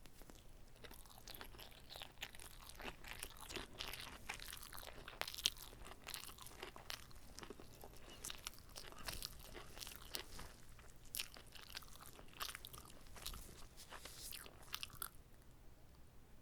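Close-miked chewing of whole gimbap (rolled rice and seaweed with fillings): wet, crunchy chewing with many sharp clicks. It starts about a second in and eases off near the end.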